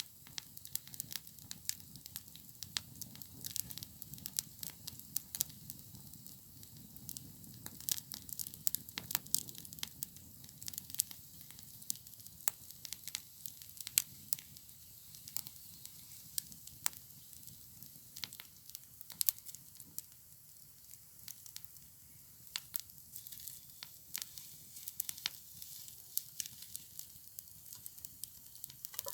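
Campfire crackling, with frequent sharp irregular pops over a steady low hiss of the flames.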